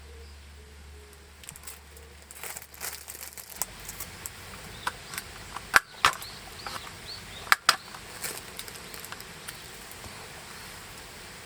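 Irregular clicks and knocks with rustling, two sharper knocks near the middle, and a few short bird chirps among them.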